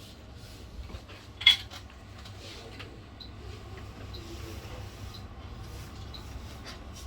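A single sharp metallic clink about a second and a half in, over a steady low hum. Faint, short high pips repeat about once a second.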